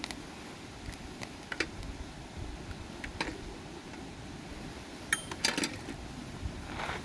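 Scattered clinks and knocks of small hard objects being handled, about seven in all. The loudest is a pair of clinks a little past five seconds in, one with a brief metallic ring.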